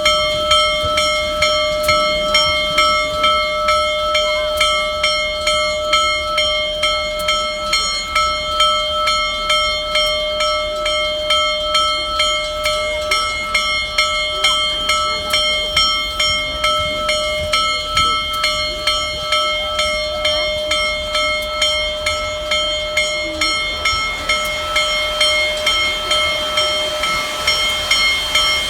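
Union Pacific Big Boy steam locomotive's bell ringing continuously in a steady, even rhythm as the engine moves off.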